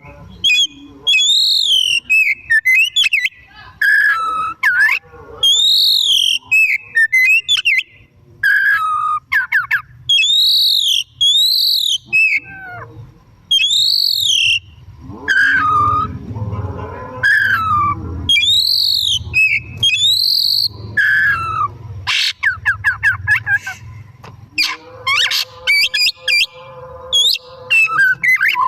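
Oriental magpie-robin (kacer) in full song: loud, repeated arching whistles, mixed with falling slurred notes, with bursts of fast rattling trills about two-thirds of the way in and near the end.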